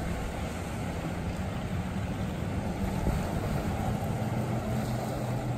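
Motorboat engine running steadily, a low droning hum with no change in pitch.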